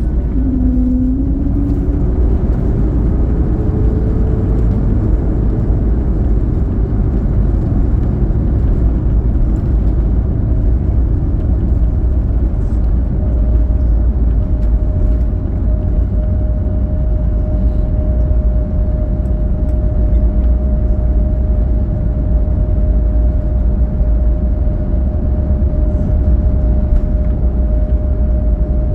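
Cabin noise inside an Airbus A321neo airliner around landing: a loud, steady low rumble of engines and airflow. An engine tone rises in pitch over the first few seconds, and a steady whine comes in about halfway through.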